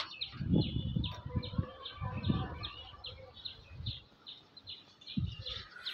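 A bird chirping over and over, short high chirps at about three a second. Low thumps come through the first half and once more near the end.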